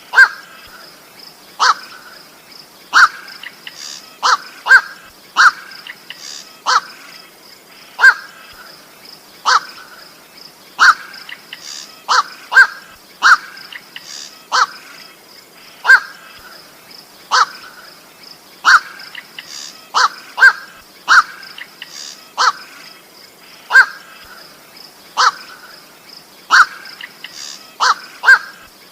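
Koak bird calls played as a lure: short, harsh calls repeated over and over, roughly one every second or so, sometimes in quick pairs, over a faint steady high tone.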